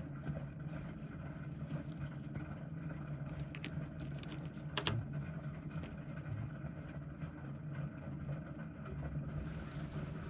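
Steady low hum with a few light clicks of metal tweezers on small watch-movement parts, the sharpest about five seconds in, during disassembly of a Seiko 7549 movement.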